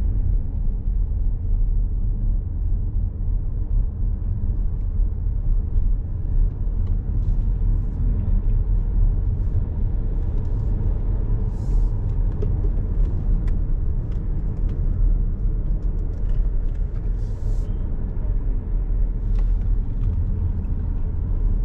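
A car driving on the road: steady low road rumble and tyre noise.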